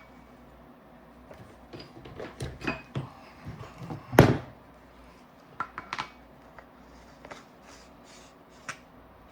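Hard clicks and knocks from handling a paintball marker and its air tank, with one loud knock about four seconds in and a few lighter clicks after it. No hiss of air.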